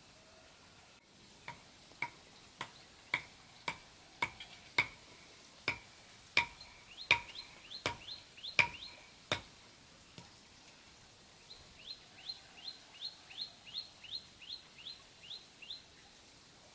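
A run of sharp knocks, about two a second, getting louder for several seconds and then stopping. Over their second half, and again after a pause, a bird gives runs of quick rising chirps, about three a second.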